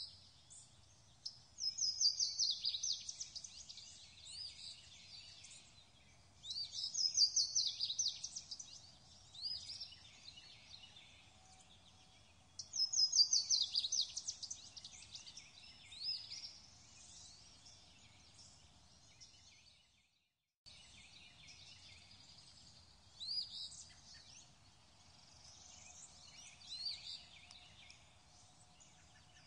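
Birdsong ambience: a songbird repeats a fast trilled phrase about every five or six seconds over fainter chirps from other birds, with a brief dropout about twenty seconds in.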